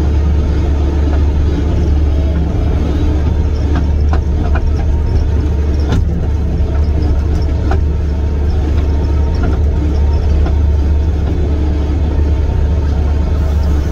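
Kubota SVL75-2 compact track loader's four-cylinder diesel engine running steadily, with a few short clicks and knocks about four to seven seconds in.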